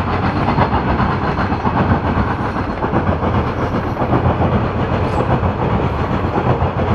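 Loaded coal train's gondola cars rolling past, steel wheels on the rails making a steady, dense rumble and clatter.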